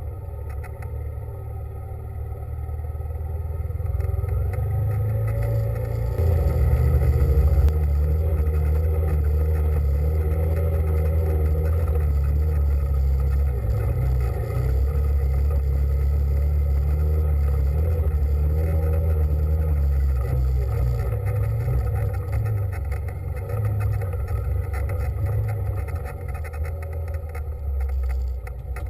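An engine running steadily under load with a deep hum. It builds from about four seconds in, holds strongest through the middle and eases off after about twenty seconds.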